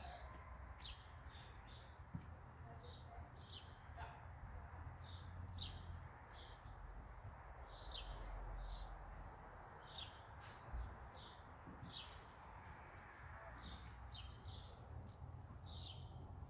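Birds chirping, short high chirps repeating irregularly about once or twice a second, faint over a low steady rumble.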